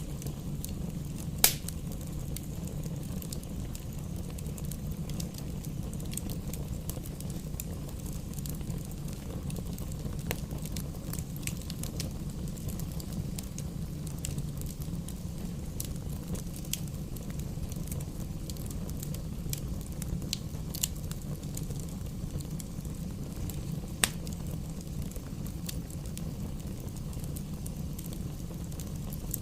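Campfire burning: a steady low rumble with scattered crackles and two sharp, louder pops, one about a second and a half in and one about five seconds before the end.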